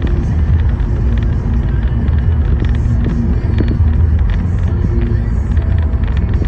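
A car driving: a steady low rumble of engine and road noise, with scattered faint ticks.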